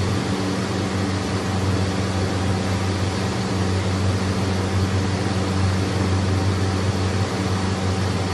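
Steady machine hum: a low motor drone under an even hiss, unchanging throughout.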